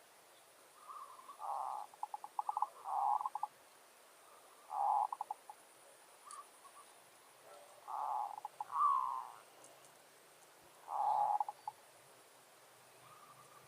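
Zebra doves cooing: about five short phrases of rapid, stuttering coo notes, each about half a second to a second long, spaced a couple of seconds apart.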